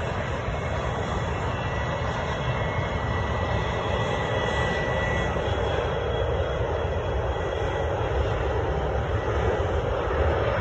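Airplane engines running steadily, with faint high whining tones over the low noise.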